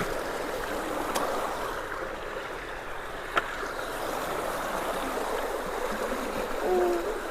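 Creek water flowing steadily through road culverts, a continuous rushing with one short sharp click about three and a half seconds in.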